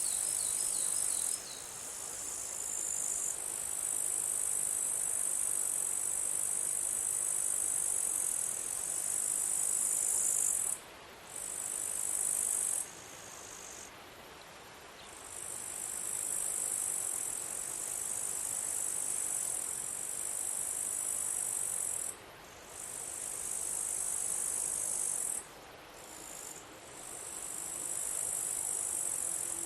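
Insect stridulation: a steady, high-pitched buzzing that stops abruptly and starts again several times.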